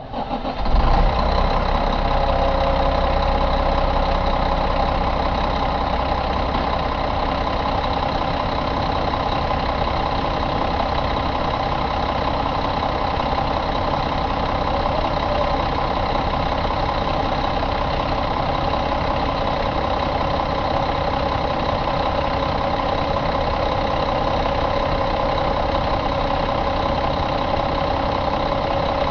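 2007 Mack E7 inline-six diesel engine idling steadily.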